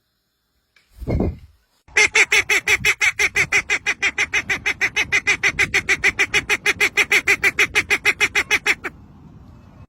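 A bird calling in a long, fast run of harsh, even notes, about seven a second, lasting some seven seconds, after a short low sound about a second in.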